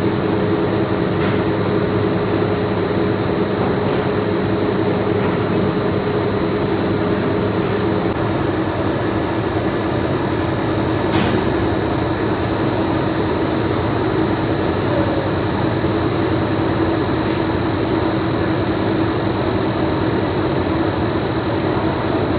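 Pipe-factory machinery running steadily: a constant hum with a thin high whine over it, and a few faint clicks, the sharpest about eleven seconds in.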